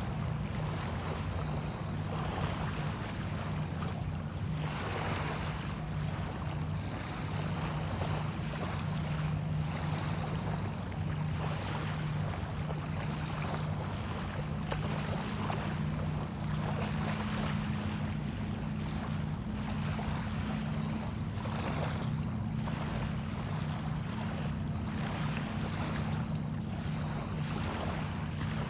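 Small bay waves washing in every few seconds, over a steady low engine hum, like a boat motor running offshore.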